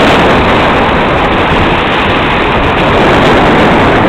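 Strong wind rushing over the microphone, a loud, steady noise with no distinct tones.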